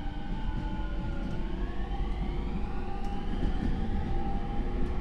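JR E231 series EMU's Hitachi IGBT VVVF inverter and traction motors whining under power, heard inside the motor car over the low rumble of the running gear. Several tones drift slightly down, then about a second and a half in sweep upward in pitch as the train gathers speed.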